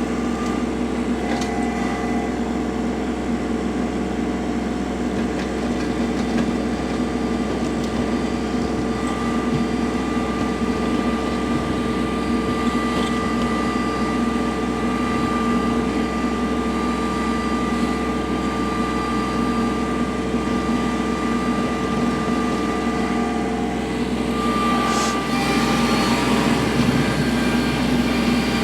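Kubota L3301 tractor's three-cylinder diesel engine running steadily with a steady whine over it, growing a little louder near the end.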